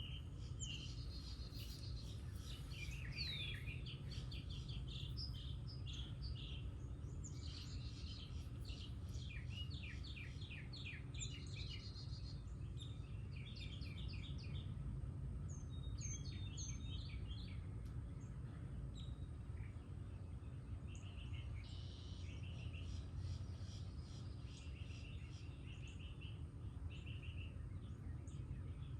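Several songbirds singing and calling: quick trills, chirps and whistles, busiest in the first half, over a steady low rumble.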